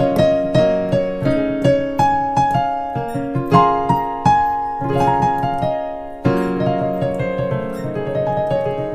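Electric piano playing a chord progression in D-flat major, with chords struck in quick succession and ringing out between attacks.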